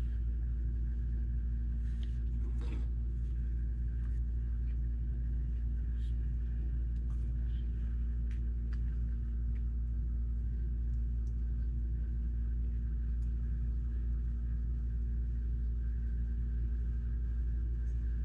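Steady deep rumble with a constant machine-like hum, unchanging throughout, with a few faint short clicks scattered over it.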